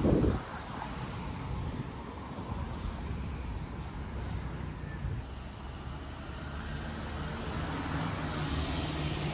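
Road traffic on a busy highway: a steady low rumble of passing cars and trucks, with a loud low surge right at the start and a vehicle's engine hum building near the end.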